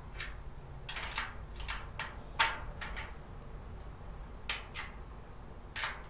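Parts of a 3-tier storage cart being handled and fitted together during assembly: a series of sharp, separate knocks and clinks, the loudest about four and a half seconds in.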